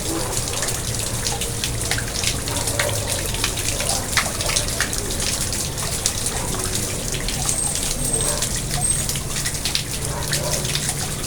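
Water splashing and trickling steadily into a garden pond, with many small droplet splashes.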